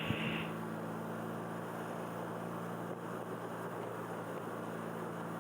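A steady low engine drone, a few held low tones over an even hiss, with no change in speed.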